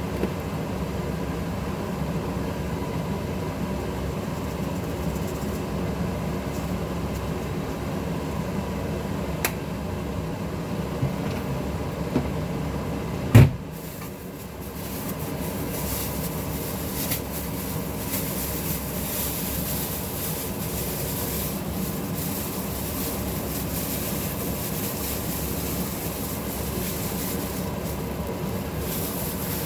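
Steady machine hum with faint steady tones, like a fan motor running. A single sharp click comes about thirteen seconds in, after which the noise dips briefly and returns with more hiss.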